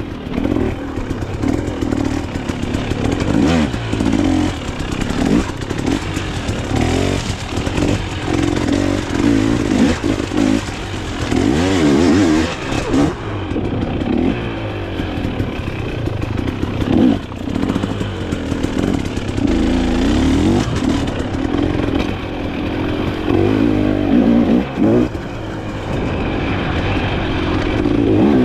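Dirt bike engine revving up and down continuously while being ridden, its pitch repeatedly rising and falling as the throttle opens and closes.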